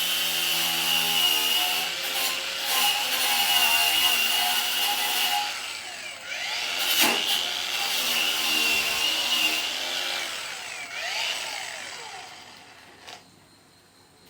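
Handheld power tool cutting or grinding under load with a steady high whine. It briefly eases off and speeds back up twice, about 6 and 11 seconds in, then stops shortly before the end.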